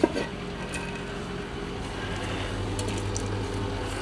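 Beans frying in a pan on the hob: a steady, even sizzle with a low hum underneath.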